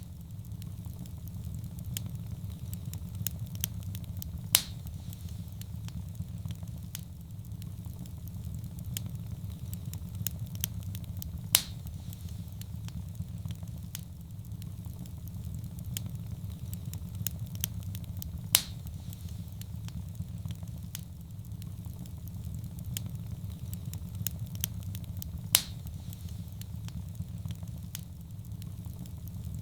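Wood fire burning in a fireplace: a steady low rumble of flame under frequent small crackles. Four louder sharp pops come at even intervals of about seven seconds.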